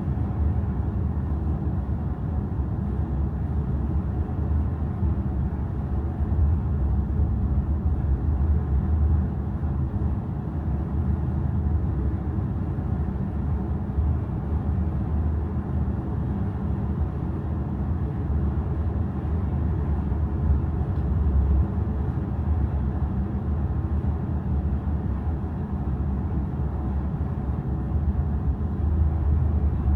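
Steady low rumble on board the ferry Kitakami while it is under way, with no distinct events.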